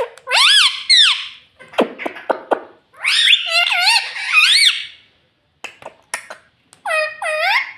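Rose-ringed (ringneck) parakeet calling and chattering: a string of short, high, wavering calls, with a jumbled talk-like stretch in the middle and two swooping calls near the end.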